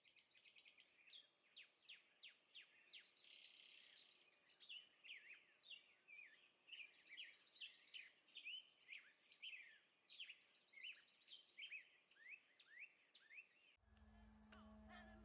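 Faint songbirds chirping and trilling: a busy run of short, high calls with quick rising and falling slurs and rapid trills, several birds at once. Music starts abruptly near the end.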